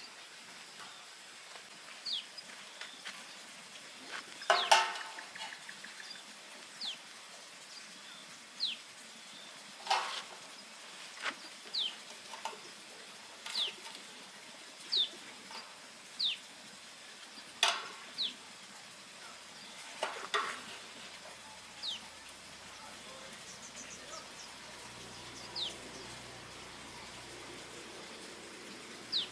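A small bird giving short, falling chirps every second or two, with four sharp knocks scattered through, the loudest about five seconds in.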